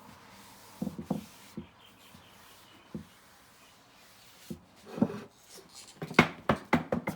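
A cloth wiping excess sealer off a freshly coated koa wood box lid, with light rubbing and scattered small knocks and clicks of handling, and a quick run of sharper taps near the end.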